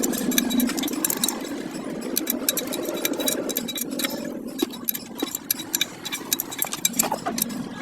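An engine running steadily, with many light metallic ticks and clinks of tools over it.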